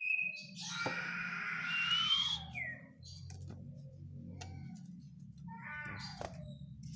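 Common iora (sirtu/cipoh) giving a drawn-out, mewing call that ends in a rising whistle and a short falling note. A second, shorter call comes near six seconds, over a steady low hum.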